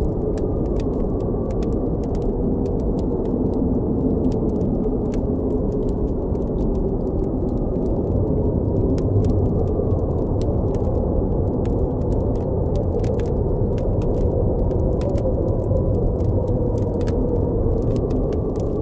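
Blizzard wind blowing steadily with a deep rumble and a faint whistle that rises and falls, while a campfire crackles over it with frequent small sharp pops.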